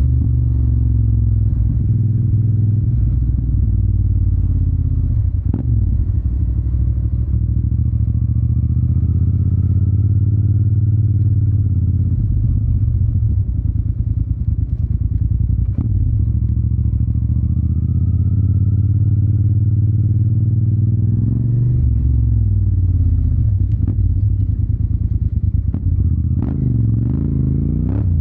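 Yamaha TDM 900's parallel-twin engine running through an Akrapovic exhaust at steady cruising revs. The revs drop and pick up again about three-quarters of the way in and once more near the end, and a few sharp clicks cut through.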